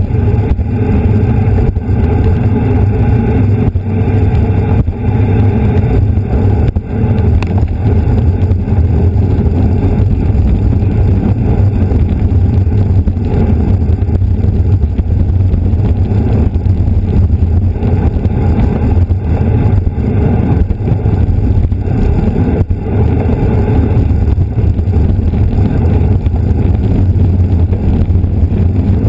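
Steady, loud wind rumble buffeting the camera's microphone on a bicycle moving at race speed.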